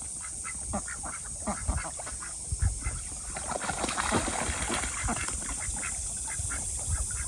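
Domestic ducks quacking in quick, short, repeated calls, with a louder noisy flurry about four seconds in.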